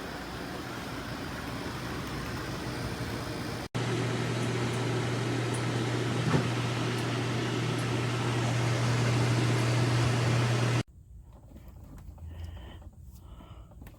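Portable air conditioner running: a steady rush of fan air, joined about four seconds in by a loud, steady low hum that cuts off suddenly near the end. A much quieter background with faint intermittent sounds follows.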